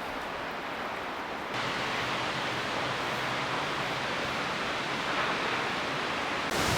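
Steady rushing noise of a waterfall heard close up, stepping up suddenly in level about one and a half seconds in.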